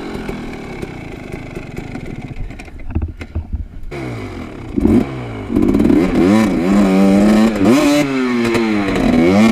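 Enduro dirt bike engine revving up and down while riding rough ground, with knocks and clatter from the bike over the first half. From about five seconds in the engine gets much louder, its pitch climbing and dropping several times as the throttle is worked.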